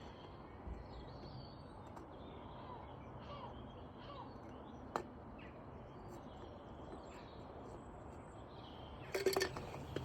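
Faint outdoor background with a few short bird chirps, a single click about halfway through, and a crow cawing loudly near the end.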